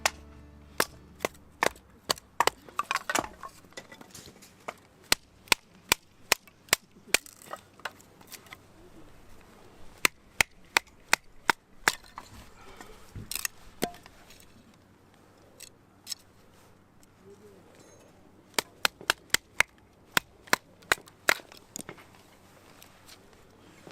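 Wood fire crackling, with sharp pops at irregular intervals, sometimes several in quick succession.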